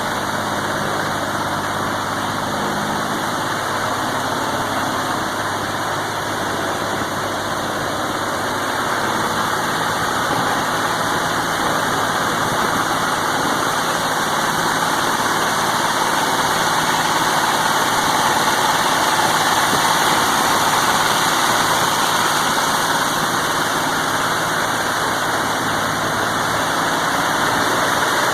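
Continental GO-300 geared flat-six aircraft engine running steadily on a ground run, turning its propeller, with a slight rise in loudness about ten seconds in.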